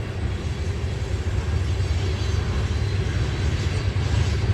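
Freight train cars rolling past at slow speed: a steady low rumble.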